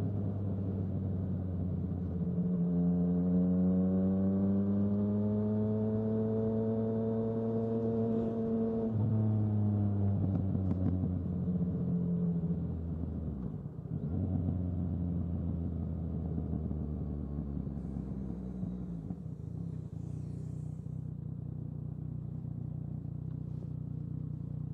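Yamaha XSR900's inline three-cylinder engine under way: its pitch rises slowly as it pulls through a gear, drops suddenly about nine seconds in at an upshift, breaks again near fourteen seconds, then settles to a steady lower note for the last few seconds as the bike sits at a stop.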